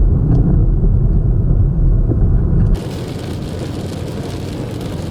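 Loud, deep rumble that cuts off abruptly about three seconds in, giving way to a steady, softer hiss.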